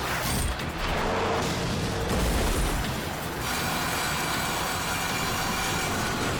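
Animated battle sound effects: a loud rush of noise with booms, settling about halfway into a steadier mechanical hum.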